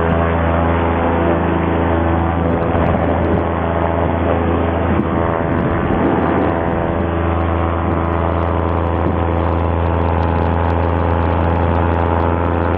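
Paramotor's two-stroke Simonini engine and propeller running steadily at power, a loud, even drone with a strong low hum.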